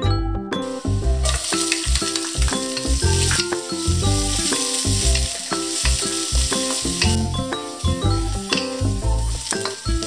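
Sliced red onion and minced garlic sizzling in hot oil in a wok, starting about a second in, and stirred with a wooden spatula. Background music with a steady beat plays throughout.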